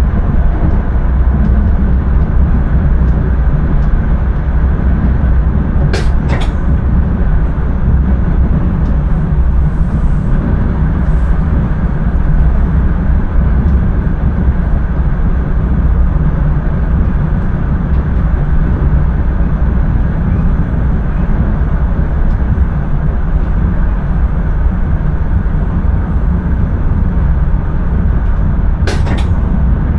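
Electric intercity train running at speed, heard from the driver's cab: a steady low rumble of wheels on track, with sharp double clicks about six seconds in and again near the end.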